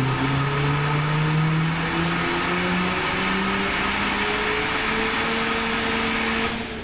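Turbocharged Ford Fiesta ST engine at full throttle in a power run on a rolling-road dyno, its note climbing slowly and steadily over a loud rushing noise. It cuts off suddenly near the end as the throttle is lifted.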